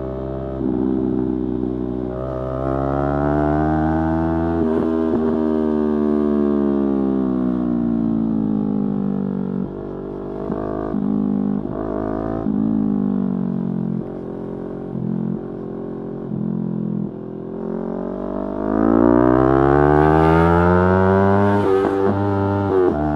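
Yamaha R3's parallel-twin engine under riding: the note climbs as the bike accelerates and sinks as it slows, with brief breaks at the gear changes, and one strong climb near the end.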